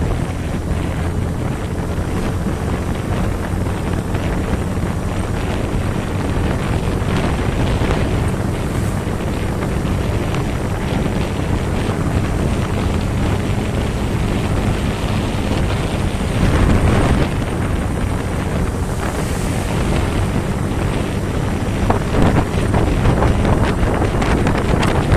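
Wind buffeting the microphone throughout, over the low, steady drone of a running engine, heard while travelling at speed; gusts swell louder a couple of times.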